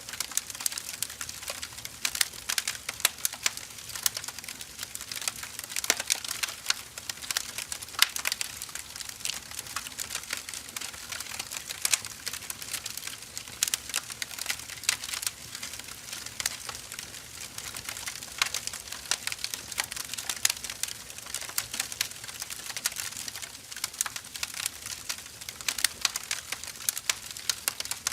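Firewood burning in a fire, crackling and popping steadily with many irregular sharp snaps over a soft hiss.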